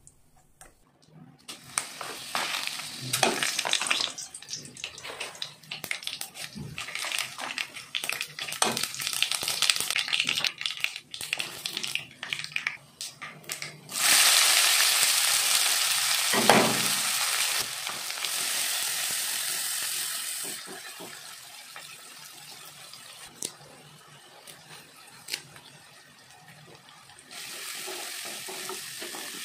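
Spices crackling and popping in hot oil in a steel kadai. About halfway through, a sudden loud sizzle as chopped onions drop into the oil; it fades over the next several seconds. Near the end, a spatula stirs the onions and the sizzle picks up a little.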